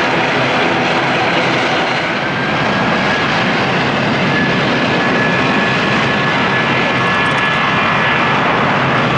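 Jet airliner engines running loud and steady, a dense rushing noise with a faint high whine that rises slightly from about two seconds in.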